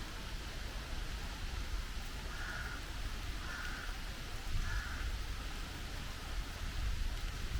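Steady rain falling, with a crow cawing three times, about a second apart, partway through.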